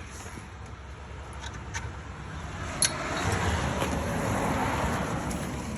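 A passing road vehicle: a steady rushing noise that swells to a peak and eases off, with a low rumble beneath it. A single sharp click about three seconds in.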